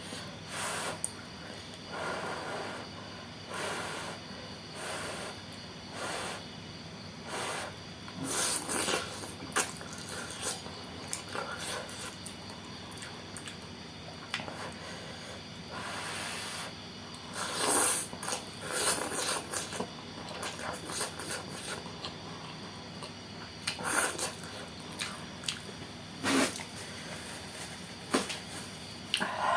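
Close-miked eating of saucy noodles with a bean-sprout topping: repeated short chewing and mouth noises, with a few louder, longer slurps about a third of the way in, a little past halfway, and near the end.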